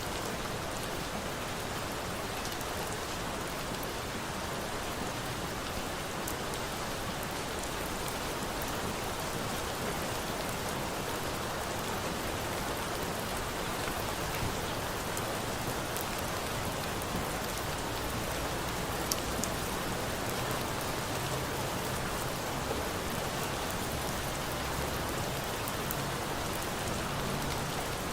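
Steady rain falling with an even hiss, and a wood campfire giving a few sharp crackling pops.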